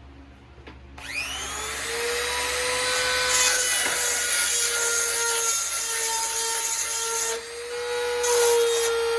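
A handheld rotary tool spins up about a second in and runs at a steady high whine, its grinding bit rasping against the steel teeth of a chainsaw chain in two stretches, the longer one in the middle and a short one near the end.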